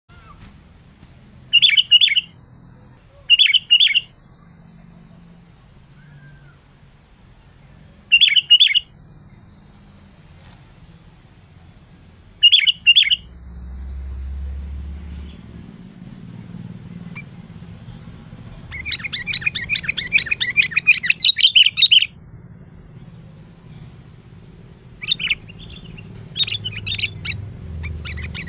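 Sooty-headed bulbul (kutilang) calling: four short bright phrases a few seconds apart, then a longer run of rapid chattering notes about two-thirds of the way through, and more short calls near the end.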